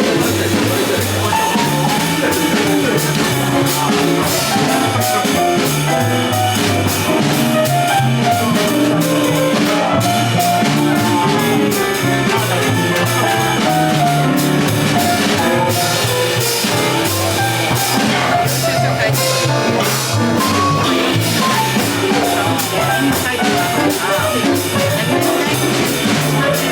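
Live small jazz band playing: drum kit with cymbals, a bass line stepping along underneath, and melody lines moving above.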